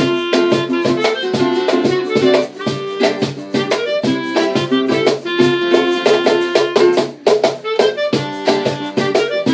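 An acoustic band playing bossa nova: held melody notes over a steady rhythm of short percussive strokes.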